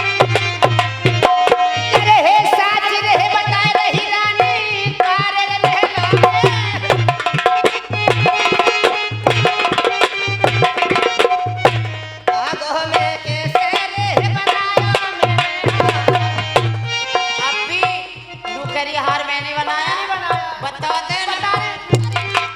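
Instrumental interlude of Dhola folk music: a hand drum keeps a steady beat under a busy melodic line, some of its notes bending in pitch.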